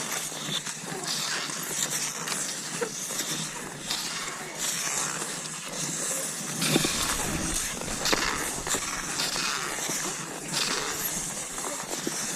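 Cross-country skis swishing over snow in a steady stride, about one swish a second, with a brief low rumble about seven seconds in.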